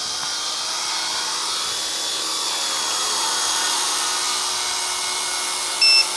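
A small electric RC helicopter (WL Toys V912) whirring steadily as it hovers, its motor and rotor making a high whine. Near the end a warning beep starts, the first of a repeating series: a low-battery alarm on a battery that wasn't fully charged.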